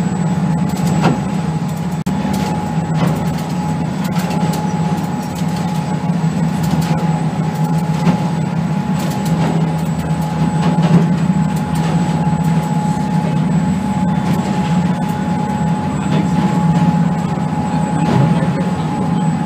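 Ship's machinery droning steadily, with a constant higher hum over the low drone and a hiss, broken by scattered faint clicks.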